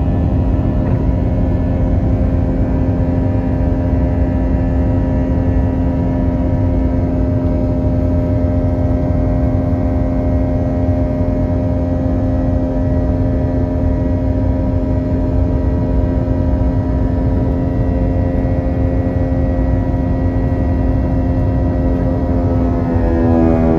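Cabin sound of an Airbus A321's IAE V2500 turbofan engines: a steady rumble with a hum and several held whine tones. Near the end the engine tones shift in pitch as the thrust changes.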